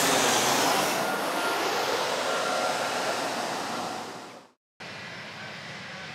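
Boeing 737-800's CFM56 jet engines at takeoff thrust: a loud rushing noise with a thin whine, slowly fading as the aircraft rolls away. It cuts off abruptly about four and a half seconds in, and a fainter steady noise follows.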